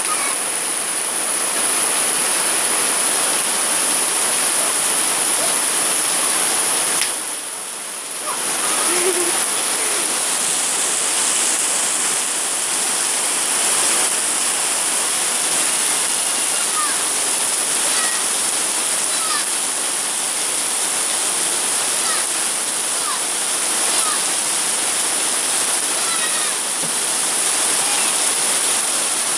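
Heavy rain pouring down steadily, a dense even hiss of water, dipping briefly about seven seconds in.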